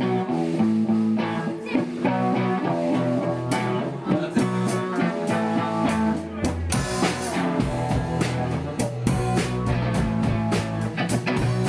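Rock band playing live: a guitar alone at first, then a fuller band sound with a heavy low end and regular drum hits coming in about six seconds in.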